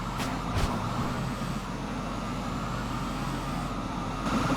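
Semi truck engine running steadily, with road noise and a couple of brief clicks about half a second in.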